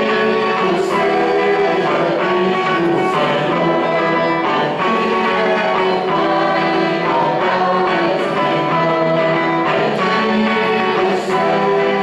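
Church hymn sung by several voices with strummed guitar accompaniment, music running steadily.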